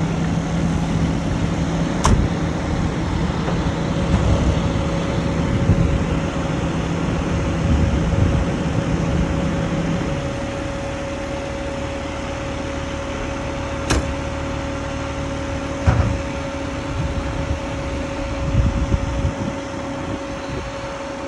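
A fire engine running at idle: a steady mechanical hum whose lowest note drops away about halfway through, with two sharp knocks, one early and one later.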